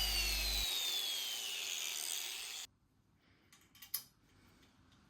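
Pneumatic pencil grinder with a burr winding down: its high whine falls steadily in pitch and fades, then cuts off abruptly a little under three seconds in. One faint click follows about a second later.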